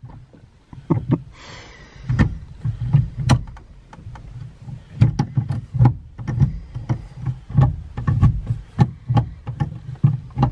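The BMW E46's swapped-in engine running, heard from in the car, with irregular knocks and clicks a few times a second.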